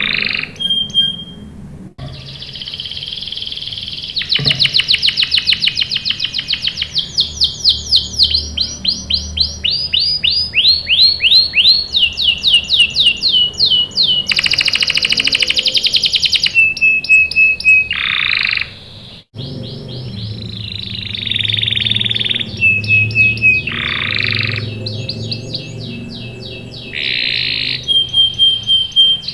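Domestic canary singing: long rolling trills of rapidly repeated notes, broken by short held whistles and harsh buzzy phrases, with a brief break about 19 seconds in.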